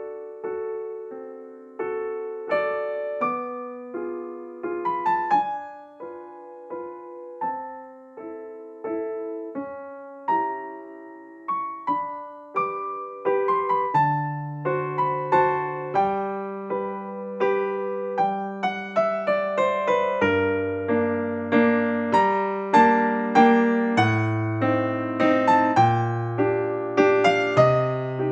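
Background music: a solo piano playing a slow, gentle melody of single notes and chords, with lower bass notes coming in about halfway through and the playing growing fuller toward the end.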